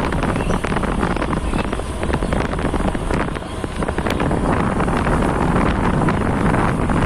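Heavy wind buffeting the microphone of a moving motorcycle, with the engine running steadily underneath.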